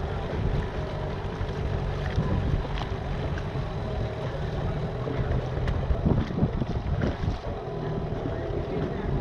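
Boat under way: a steady low engine hum with wind buffeting the microphone.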